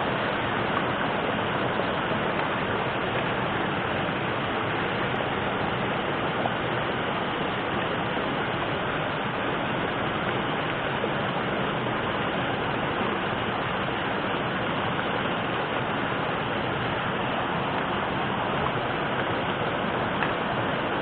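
Steady, even rush of water, like a river or rain, with no distinct events.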